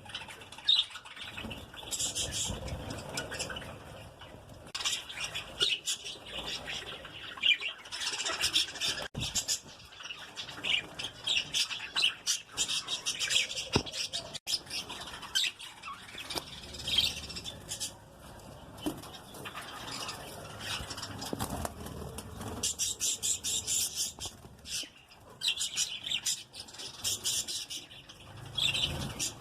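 A colony of lovebirds chattering and squawking: many shrill, high calls overlapping in rapid clusters, with short lulls between them.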